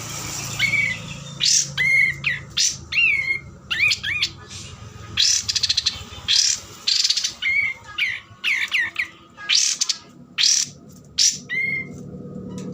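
A bird calling repeatedly in quick bouts, mixing short harsh, scratchy squawks with brief whistled notes that dip and rise in pitch.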